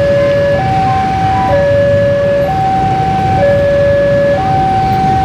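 Two-tone hi-lo emergency siren, alternating between a low and a high note about once a second, over a low rumble.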